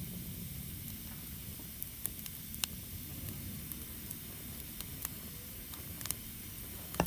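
Wood fire burning with a steady low rush, broken by a few sharp crackles and pops from the burning wood.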